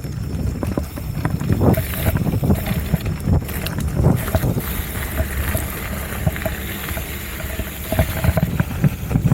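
Mountain bike rolling over a rough technical trail: a steady run of knocks and rattles from the tyres, frame and chain over roots and rocks, with wind on the microphone.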